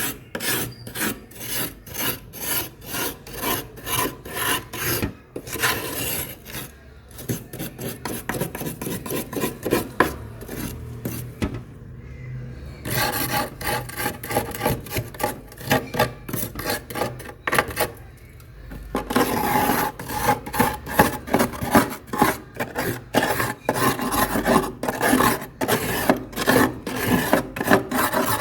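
Refrozen freezer frost crunched between the teeth close to the microphone: a fast run of gritty crunches, about two to three a second, broken by a few short pauses.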